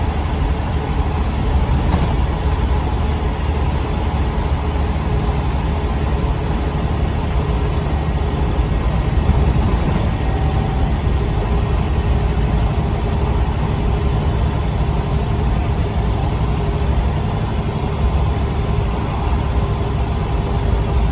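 Scania OmniCity single-deck bus running with a steady low engine and road rumble, and a sharp click about two seconds in.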